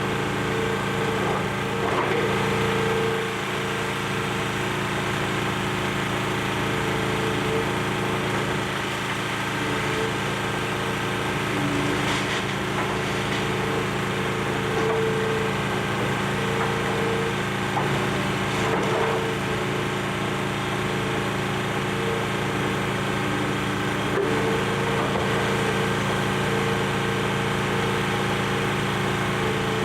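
Excavator's diesel engine running steadily on a demolition site, with a higher whine that comes and goes and a few faint crunches.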